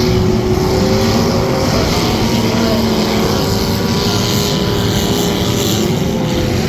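Several demolition derby car engines running at once, loud and steady, their pitches wandering up and down slightly as they rev.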